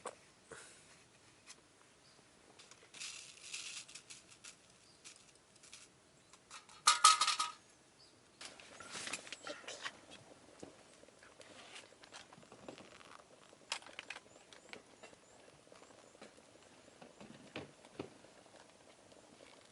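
Camp gear being handled: scattered light clinks and rustling, with a louder metallic clatter about seven seconds in.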